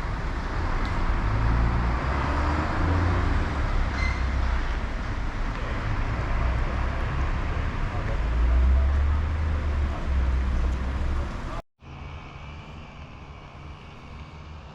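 Road traffic noise heard from a bicycle riding along a street, under a heavy, uneven low rumble. About 11 to 12 seconds in it cuts off abruptly, and a quieter, steadier background follows.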